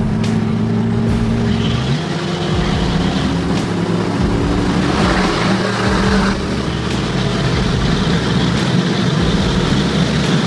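A truck engine running steadily, its note shifting about two seconds in, with road and tyre noise over it.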